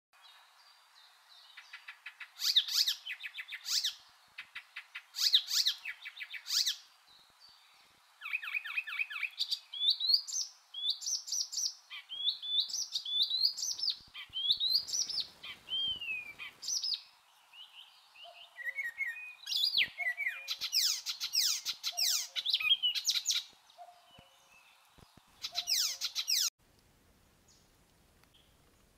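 Songbirds calling: rapid runs of chirps and trills with rising and falling whistles, several calls overlapping. It cuts off suddenly near the end.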